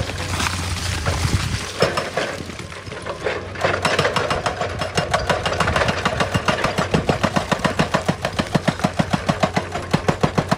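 Excavator engine running with a steady low hum. From about three and a half seconds in, a hydraulic rock breaker starts hammering in rapid, even blows, about six a second.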